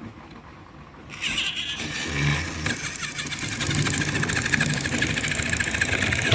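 An engine starts about a second in and keeps running with a fast, even beat.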